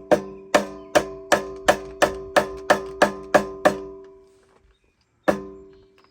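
Rubber hammer tapping a metal part onto an engine's keyed shaft, about three taps a second, each leaving a ringing metallic tone. After a pause of over a second, one last tap.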